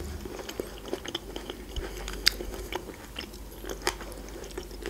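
Close-up mouth sounds of a person chewing a piece of fresh tomato: quiet wet chewing, with a few sharp clicks about two and four seconds in.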